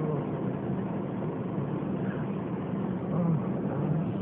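Car engine running with a steady low rumble, heard from inside the vehicle's cabin.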